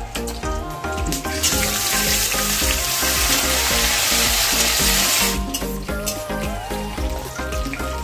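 Cashews, almonds and raisins frying with whole spices in hot ghee in a kadhai, stirred with a metal spatula. A loud sizzle swells about a second and a half in, as the nuts go into the ghee, and dies back about four seconds later. Background music with a steady beat plays underneath.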